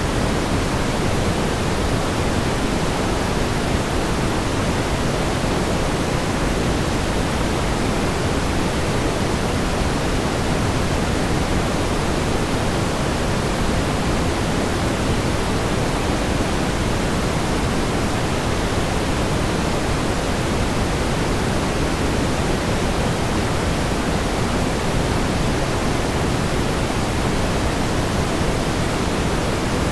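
Steady pink noise: an even, unchanging hiss, heavier in the low end and softer toward the top.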